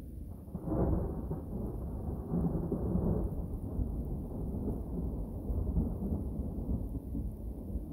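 Rolling thunder from a thunderstorm: a peal breaks about a second in, rumbles strongly for a couple of seconds, then slowly dies away into a low rumble.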